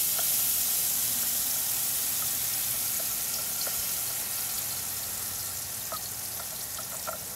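Blended shallot, onion, ginger and garlic paste sizzling as it is scraped into hot canola oil, a loud even hiss that eases off slowly, with a few faint ticks.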